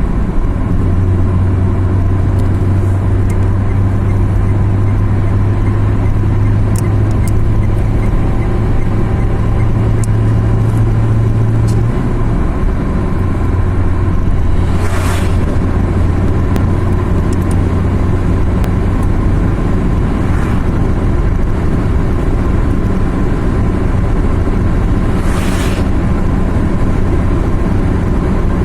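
Car engine and road noise heard while driving, a steady drone whose engine note steps down about twelve seconds in. Two brief whooshes come partway through and near the end.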